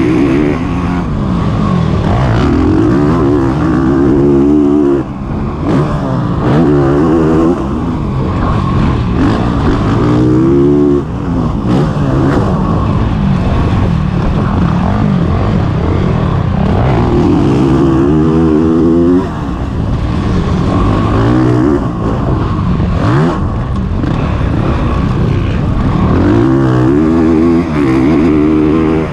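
Honda CRF450RX dirt bike's single-cylinder four-stroke engine being ridden hard. It revs up through the gears and cuts back on the throttle several times, its pitch climbing and then dropping sharply each time.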